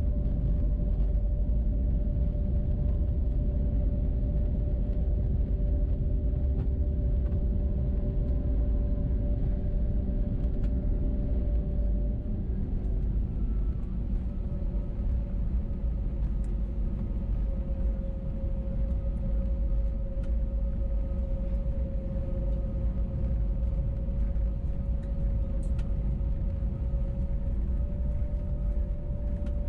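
Steady hum and rumble of an Airbus A321neo's engines, heard from a cabin window seat. About twelve seconds in, the level drops a little and the engine tone shifts.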